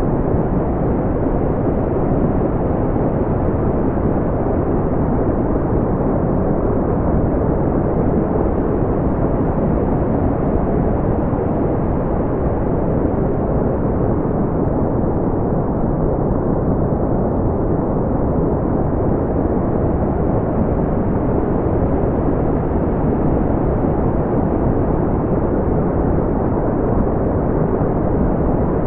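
Brown noise: a steady, deep rushing hiss with most of its weight in the low end and nothing above the mid range, unchanging throughout.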